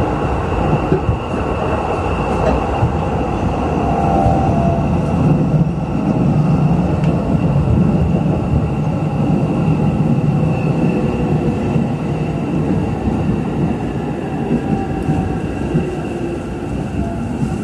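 Interior running noise of a JR East E531 series electric train: the rumble of wheels on rail with a steady high whine, as the train draws alongside a station platform.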